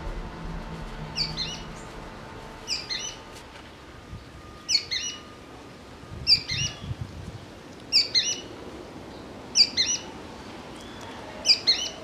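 A songbird repeating a short, bright chirped call about every one and a half to two seconds, seven times in all.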